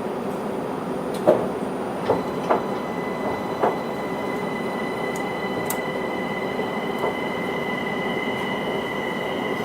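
Linimo maglev train heard from inside the car, running with steady rushing noise and no tyre or wheel sound. About two seconds in, a steady high whine from its linear-motor drive sets in, and a few sharp clicks come in the first four seconds.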